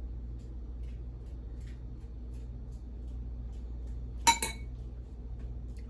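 A utensil clinks sharply against a dish once, a little over four seconds in, with a smaller clink right after, over faint light ticks and a steady low hum.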